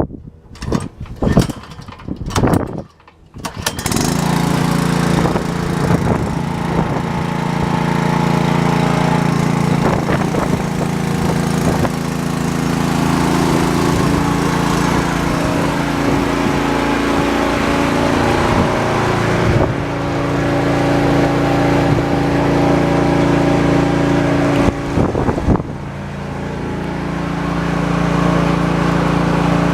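A vehicle engine is cranked, sputtering in a few short bursts, and catches about four seconds in. It then runs steadily, with a brief change about two-thirds of the way through and a few quick blips near the end.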